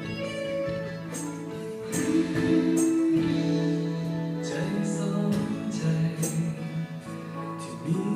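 A small live band's song playing through Bose L1 column PA speakers: sustained melodic notes over guitar, with regular percussive hits.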